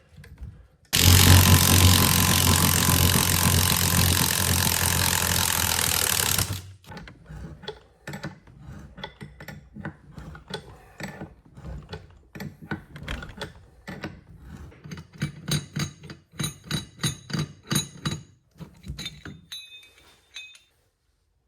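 A power tool runs steadily for about five seconds, then a long run of clicks, knocks and light metallic clinks as parts are handled and fitted.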